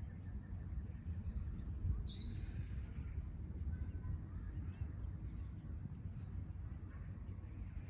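Birds chirping: one falling call a little over a second in, over a run of short, evenly spaced very high chirps, with a steady low rumble underneath.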